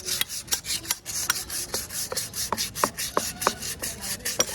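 Sandpaper rubbed by hand inside a motorcycle brake drum, in quick repeated scraping strokes. The sanding roughens the braking surface so that weak brakes grip harder.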